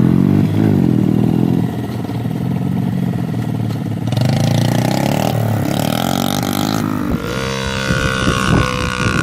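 Dirt bike engine running and revving, its pitch repeatedly rising and falling; the sound changes abruptly about seven seconds in.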